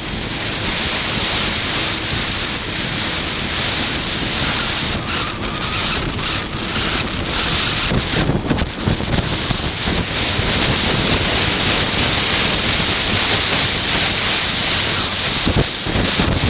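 Loud wind noise buffeting an action camera's built-in microphone on a motorcycle riding at speed, a steady harsh hiss that drowns out the engine, easing briefly a few times in the middle.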